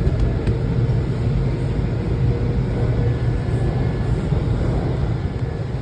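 Washington Metro train running at speed, a steady low rumble from inside the car, with a couple of faint clicks near the start.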